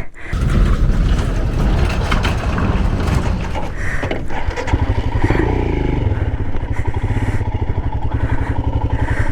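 Motorcycle engine running with wind rush as the bike rides in and slows, then idling with a steady rapid beat from about four and a half seconds in.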